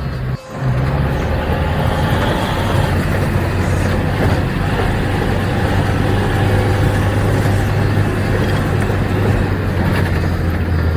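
Off-road 4x4 vehicle engine running steadily with a deep drone, cut by a brief break about half a second in.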